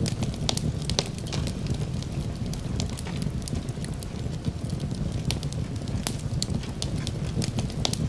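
Fireplace wood fire crackling, with frequent sharp, irregular pops over a steady low rumble.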